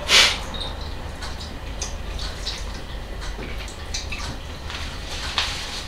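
Wet chewing and lip-smacking of people eating chicken with their hands, a run of small smacks and clicks, with a sharper click just after the start and another near the end.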